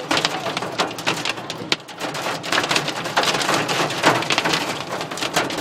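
Hail drumming on a car's roof and windshield, heard from inside the cabin as a dense, irregular clatter of many small hits.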